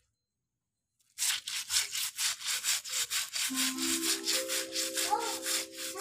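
Stiff scrubbing brush rubbing back and forth over a mossy, slippery floor in quick rhythmic strokes, about four a second, starting about a second in.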